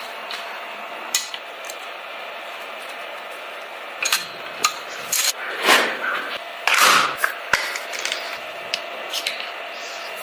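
Small hand tools and metal parts clicking, knocking and scraping against a die-cast model car on a workbench, over a steady hiss. Most of the sharp clicks come between about four and five seconds in, and longer scrapes follow about six to seven seconds in.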